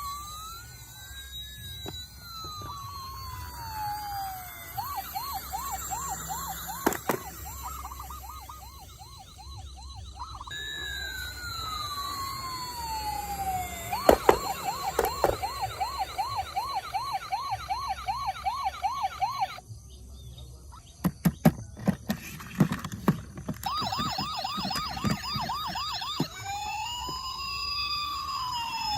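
Toy emergency vehicles' electronic sirens: slow rising-and-falling wails alternating with fast warbling yelps about three a second, with two or more sirens overlapping near the end. Bursts of sharp clicks and knocks come in about two-thirds of the way through.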